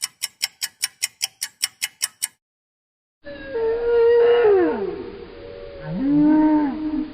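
A countdown clock ticks fast, about six ticks a second, and stops. About three seconds in, an animal gives two long howl-like calls, each holding a pitch and then sliding: the first falls away low, the second rises, holds and falls.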